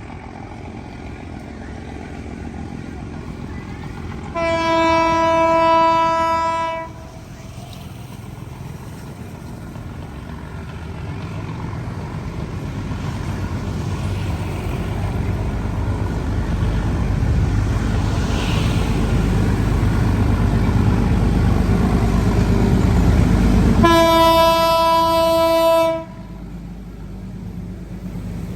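Train horn sounding two long blasts about twenty seconds apart, over the rumble of an approaching train that grows steadily louder. The sound cuts off suddenly just after the second blast.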